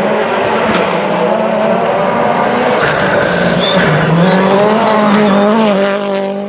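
Rally car engine running hard at high revs on a gravel stage; the pitch drops about four seconds in and climbs again, and the sound fades near the end as the car pulls away.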